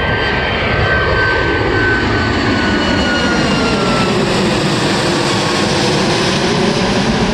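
Boeing 737 MAX 8 jet airliner taking off, its engines making a loud, steady roar with whining tones that slowly fall in pitch as it passes, the roar shifting and phasing.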